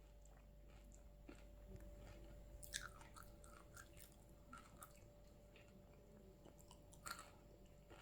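Near silence, with a few faint small clicks and crackles, most of them about three seconds in and one near the end.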